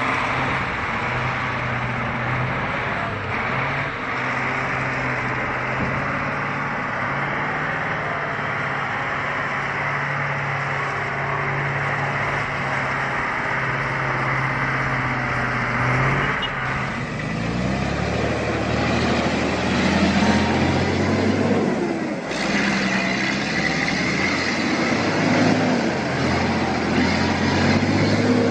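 Truck engine running at a steady pitch, then, about two-thirds of the way through, the sound changes abruptly to an engine revving up and down with a deeper note.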